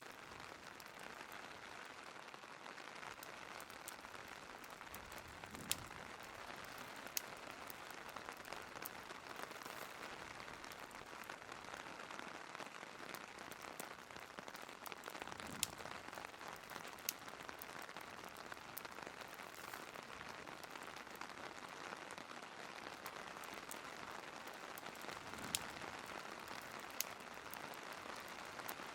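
Steady rain ambience, an even hiss of rain falling on a surface that comes up at the start. Pairs of sharp pops, about a second and a half apart, recur about every ten seconds over it.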